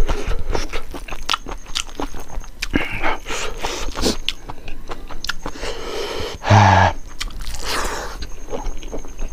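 Close-miked eating sounds of chicken gizzard curry and rice eaten by hand: chewing, wet lip smacks and the squish of fingers working rice into the gravy. About six and a half seconds in there is one short, loud vocal sound from the eater.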